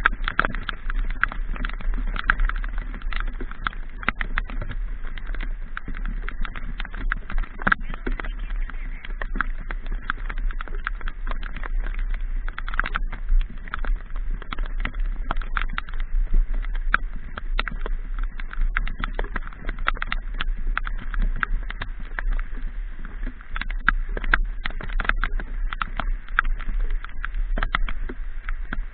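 Raindrops ticking irregularly and densely against the microphone over a steady low rumble, riding a motorbike in the rain.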